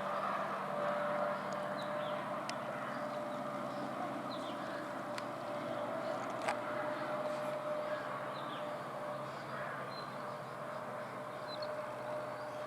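EMD WDP-4D diesel locomotive running steadily, a constant low hum with a steady higher tone held over it. Birds chirp briefly several times and a few sharp ticks cut in.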